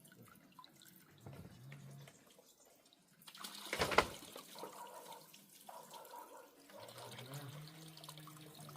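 Water running and splashing, with a louder rush of water about four seconds in.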